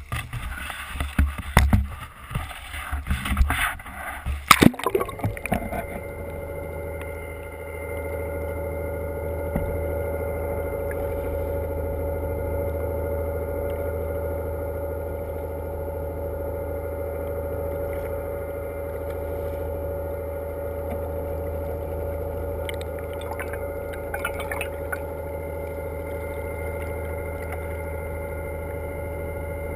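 Boat engine running at a steady pitch, preceded by about five seconds of loud, irregular rushing noise that stops abruptly.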